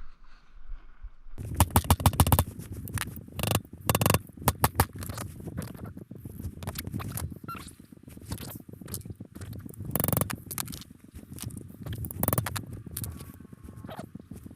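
Rapid metallic clicking, knocking and scraping of hand tools working a homemade bolt-and-socket bearing press, pressing a needle bearing into a motorcycle suspension linkage. The clicking starts about a second and a half in, with a few louder knocks among it.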